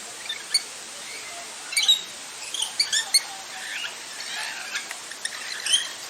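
Parrots chattering, with many short, sharp squawks and chirps overlapping. The loudest cluster of calls comes about two to three seconds in.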